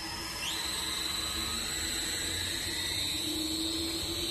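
Double sigma-blade mixer's electric drive motor running under the inching button: a steady hum with high whining tones that glide up in pitch about half a second in, then hold steady.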